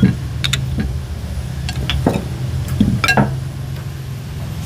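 Scattered clinks of chopsticks and spoons against ceramic rice bowls and dishes during a meal, a few separate knocks over a low steady hum.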